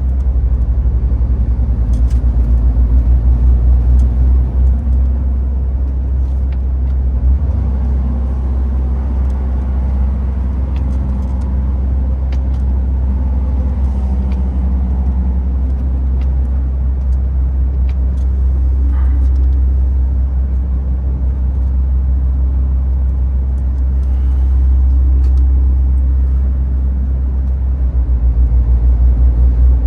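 MAN TGX 18.510 truck tractor on the move, its 12.4-litre straight-six diesel and the road making a steady low drone. It holds a constant pace, with a faint click here and there.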